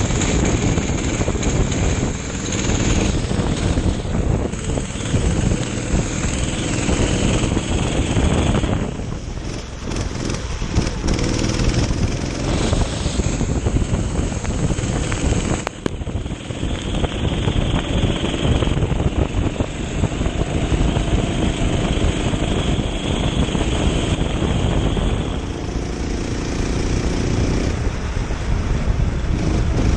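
Kart engine running hard through a lap, its pitch rising and falling with acceleration and braking, under heavy wind noise on the onboard microphone.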